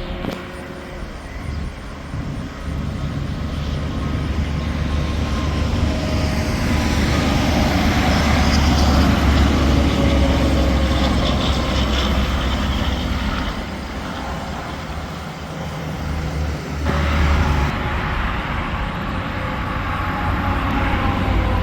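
Interstate traffic passing: tractor-trailers and cars with engine rumble and tyre noise, swelling to a peak about nine seconds in, easing off after about thirteen seconds and building again near the end.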